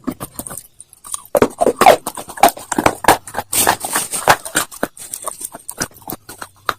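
Close-up crunching and chewing of hard, brittle slate-stone pieces, a fast, irregular run of sharp cracks and crackles. There is a short lull just before a second in, then the densest crunching.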